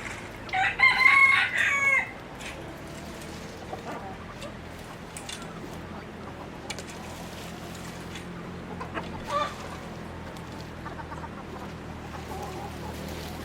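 A rooster crows once, loud and drawn out for about a second and a half, starting about half a second in. A few fainter chicken calls follow later, over a steady low hum.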